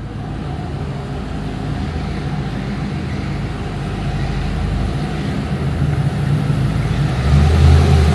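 1967 Pontiac GTO V8 engine running with a steady low rumble that grows slowly louder and swells briefly near the end.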